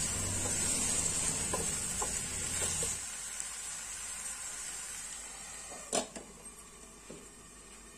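Tomatoes, garlic and ginger sizzling in a frying pan as a wooden spatula stirs them, with a few light knocks; the sizzle drops away after about three seconds. About six seconds in, a stainless-steel lid is set on the pan with a single sharp clank.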